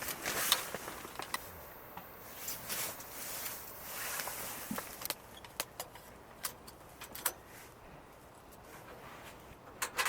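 Handling noises: a string of sharp clicks and light knocks with some rustling, loudest about half a second in and again near the end.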